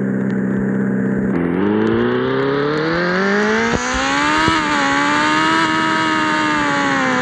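Yamaha XJ6 motorcycle's inline-four engine running through an open pipe with no silencer, very loud. It holds low revs for over a second, then picks up and the pitch climbs steadily as the bike accelerates, settling at a steady higher pitch near the end.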